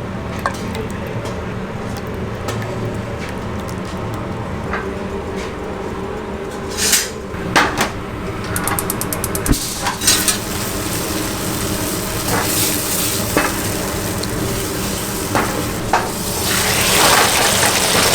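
Food sizzling in a hot pan, with metal utensils clinking and scraping against it over a steady kitchen hum. The sizzle grows louder near the end.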